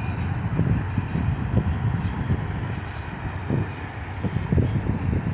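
Freight train of autorack cars rolling past while coasting, with a steady low rolling noise of wheels on rail and irregular knocks from the cars.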